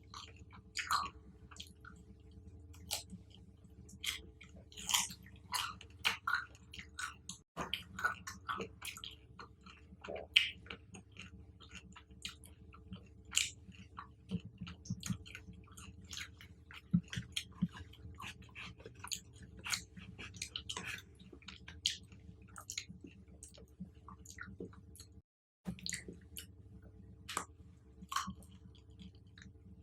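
Close-miked chewing of fruit and chocolate-covered fruit: irregular wet smacks and sharp mouth clicks over a steady low hum.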